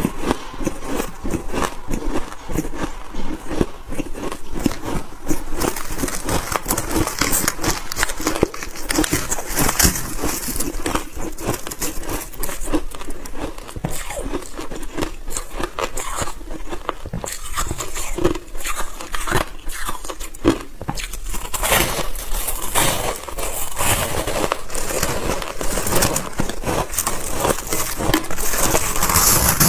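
Close-up crunching and chewing of soft freezer frost (white ice) in the mouth: a dense, irregular run of crackly crunches that never lets up.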